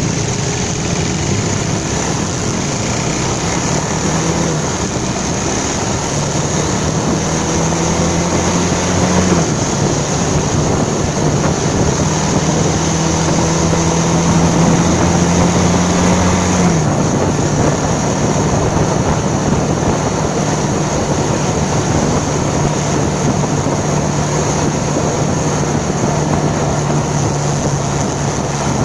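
Motorcycle engine running on the move, its pitch shifting up and down a few times, over steady wind and road noise.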